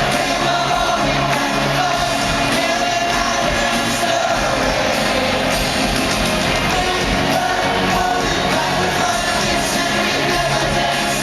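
Live pop band performing with sung vocals, a dense, steady wall of music, as heard at a stadium concert.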